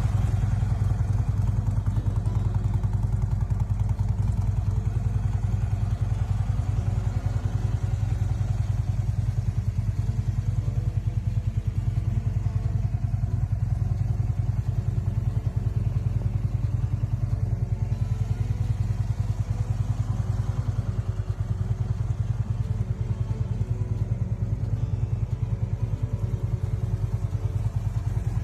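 2009 Harley-Davidson Tri-Glide's air-cooled V-twin engine running steadily, without revving, with a rapid even exhaust pulse.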